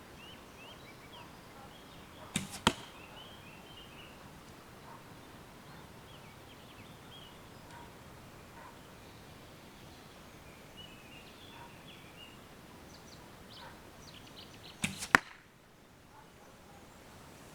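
Two arrow shots from a bow, about twelve seconds apart. Each is a sharp release followed a fraction of a second later by the arrow's hit. Birds chirp faintly in between.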